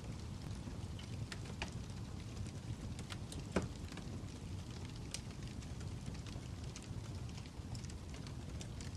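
Fire crackling: irregular sharp pops and snaps over a steady low rumble, with one louder pop about a third of the way in.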